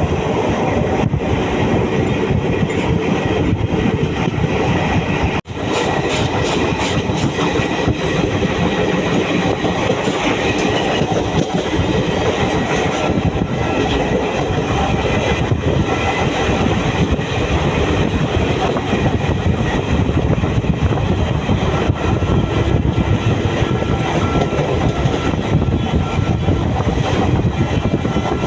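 Train running along the track: a steady, loud noise of wheels on rails, broken once by a sudden short drop about five seconds in.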